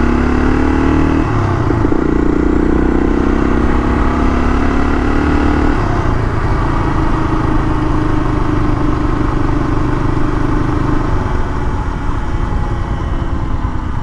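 Honda XL500's single-cylinder four-stroke engine pulling away. Its pitch climbs, then drops sharply at upshifts about a second and about six seconds in, and it settles to a steady cruise.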